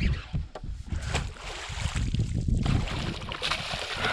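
Water sloshing and splashing against the side of a fishing boat, with small knocks and a low rumble.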